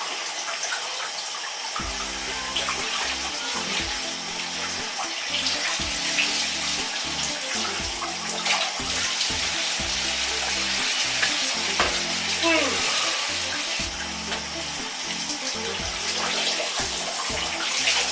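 Shower running: a steady hiss of spraying water, with a few light clicks and knocks over it.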